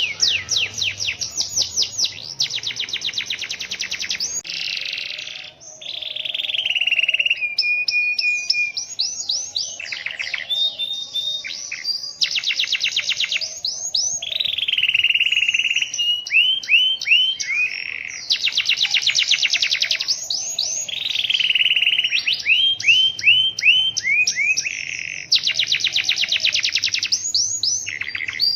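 Domestic canary singing a long, continuous rolling song of fast trills and rapid repeated notes. It switches to a new phrase every second or two, with only a brief break about five seconds in.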